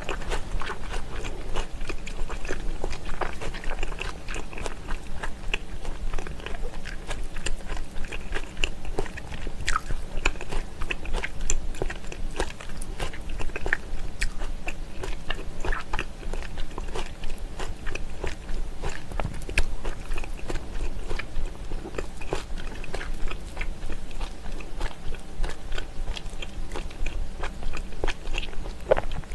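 Close-miked wet chewing and mouth smacks of a person eating smoked salmon, a constant stream of small clicks and squelches.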